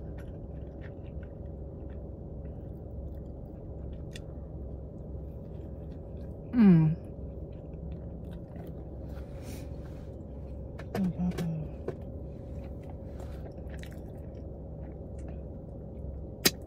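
A woman chewing a bacon-ranch slider with her mouth closed, soft wet chewing with small clicks, over a steady low hum. About six and a half seconds in she makes a loud hummed 'mmm' that falls in pitch, a few short hums follow around eleven seconds, and there is one sharp click near the end.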